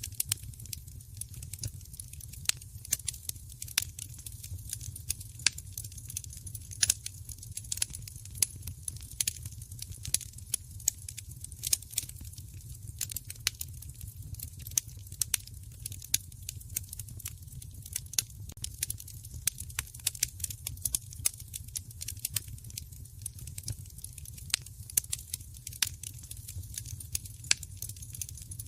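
Fire crackling in a fireplace: a dense run of irregular sharp snaps and pops over a low, steady rumble.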